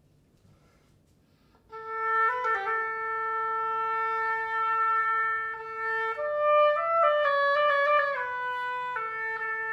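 Oboe playing a short solo phrase after a brief near-silence. It starts on a long held note, steps up through a few quicker notes in the middle, then settles back on the opening note and holds it.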